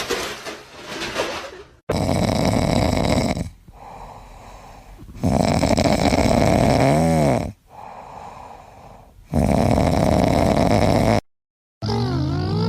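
A sleeping pet snoring loudly: three long snores a few seconds apart, the middle one ending in a brief whistle. After a short cut near the end, high sliding squeaky tones begin.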